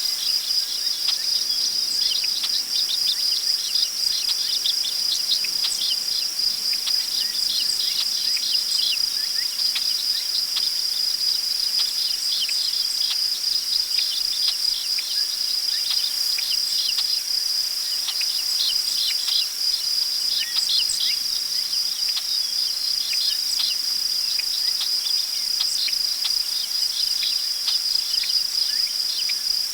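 Crickets trilling in one continuous high-pitched drone, with many short bird chirps over it, thicker in the first half. A faint rush of wind in tall grass lies underneath.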